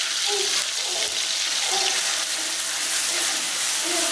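Spice paste of shallots, chilies, tomato and shrimp paste sizzling steadily in hot oil in a wok, with a spatula starting to stir it near the end.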